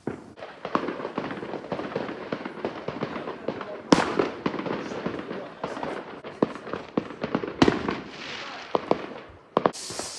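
Fireworks going off: a dense run of crackling pops that starts abruptly, with loud bangs about four seconds in and again near eight seconds, and a hissing crackle near the end.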